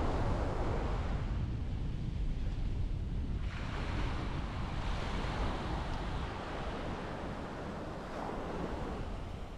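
Small waves breaking and washing up the sand, the surf swelling and fading, with a new wash setting in sharply about a third of the way through. Wind buffets the microphone as a low rumble underneath.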